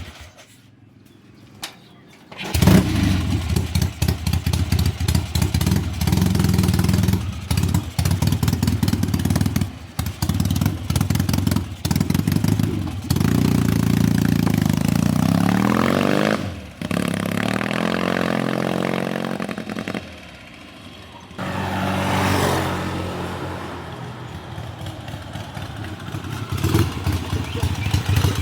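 BSA A65 Thunderbolt's 650 cc parallel-twin engine running, with several abrupt breaks in the sound. It is revved up, its pitch rising, about halfway through and again a few seconds later.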